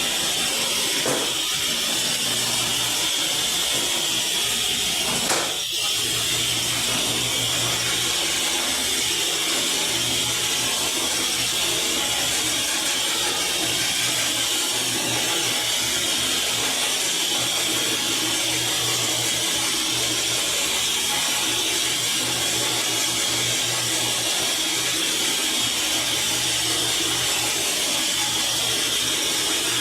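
Electric power tool running steadily while cutting MDF board, with one short knock about five seconds in.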